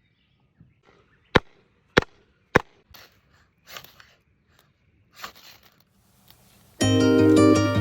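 Three sharp knocks about half a second apart, followed by a few softer rustling scrapes. Plucked-string music with a harp-like sound starts near the end.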